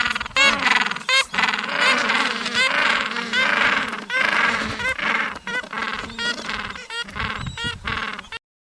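Penguins calling: a long string of short, harsh pitched calls, several a second, that stops suddenly near the end.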